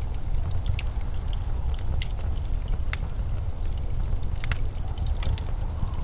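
Low, steady rumble of winter storm wind, with scattered small crackles and ticks on top.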